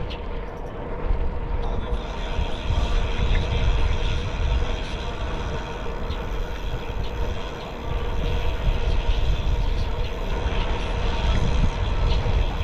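Steady wind rumble on the microphone of a moving bicycle, with the running noise of the ride underneath.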